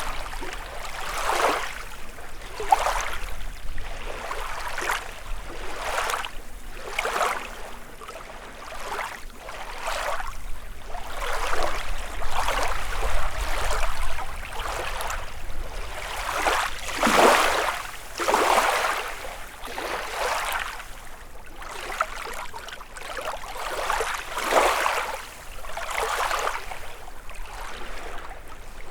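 Small lake waves lapping and washing against the shore, one after another every second or two, over a faint low rumble.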